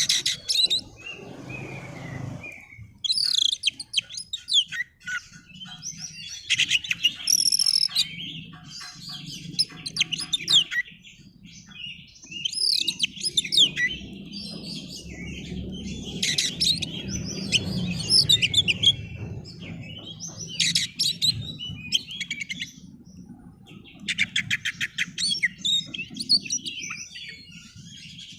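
Oriental magpie-robin (kacer) singing: repeated bursts of rapid, varied whistles and chattering trills, with short pauses between phrases.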